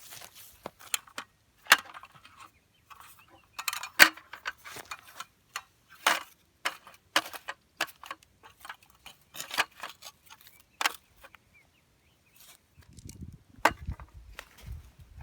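Irregular clinks and knocks of camping gear being handled: a string of sharp strokes with pauses between. A low rumble of wind on the microphone comes in near the end.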